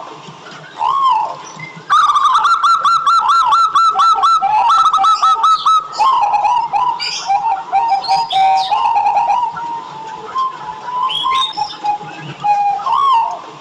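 Local zebra dove (perkutut) singing: single rising-and-falling coo notes, then from about two seconds in a fast staccato run of short cooing notes lasting about four seconds, followed by more quick rippling coos.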